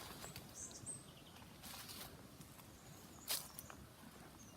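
Footsteps and rustling through dry grass-tree foliage, a few brief brushes, the loudest about three seconds in, with faint high-pitched chirps of small birds in the background.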